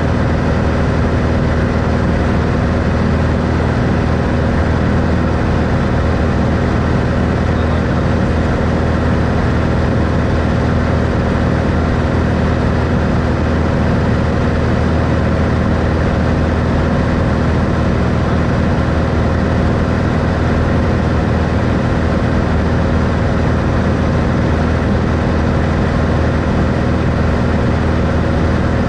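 1964 Cessna Skylane's six-cylinder Continental O-470 piston engine and propeller running steadily, a constant loud drone with no change in pitch.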